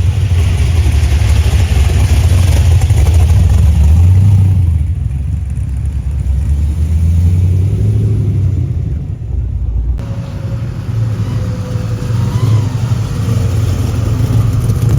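Car engine running with a deep exhaust rumble, loudest in the first few seconds; the sound breaks off sharply about two-thirds of the way in and the rumble carries on.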